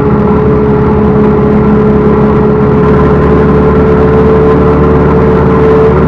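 Backhoe loader's diesel engine running steadily, with a strong steady whine over the engine note that rises slightly near the end.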